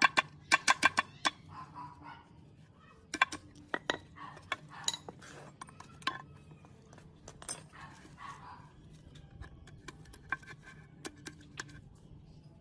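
Metal gearbox parts and tools clinking and knocking as they are handled: a quick run of sharp metallic taps near the start, then scattered single clinks.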